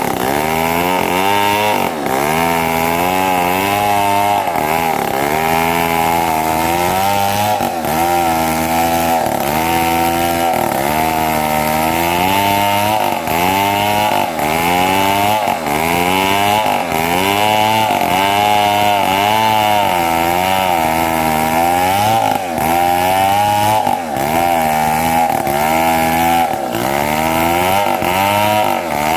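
Two-stroke chainsaw running at high speed, cutting mahogany. Its pitch sags and recovers about every second or so as the chain bites into the wood.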